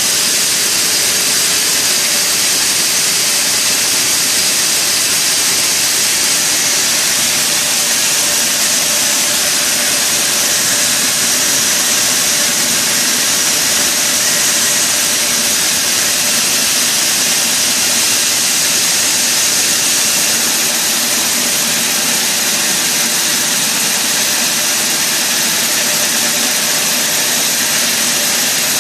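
Sawmill machinery running steadily: a loud, even, hissing machine noise, strongest high up, that does not change.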